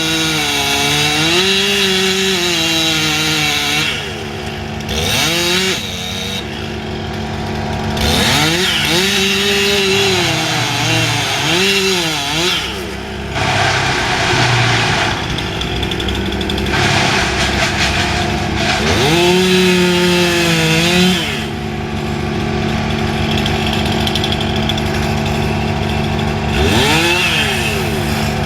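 Two-stroke chainsaw running at high throttle, its engine note repeatedly dipping under load and climbing again as it cuts, over a steady lower engine hum.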